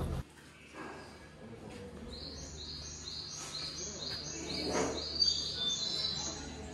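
A bird calling a long, even series of short, high notes, a little over two a second, starting about two seconds in and stopping near the end.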